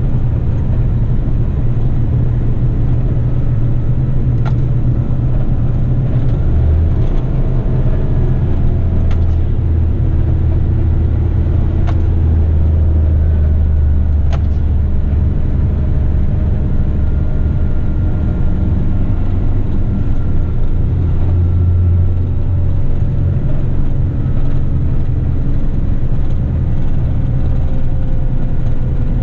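Heavy eight-wheeler twin-steer rigid truck on the move: a steady, low rumble of engine and road noise, with faint higher tones that drift slowly in pitch.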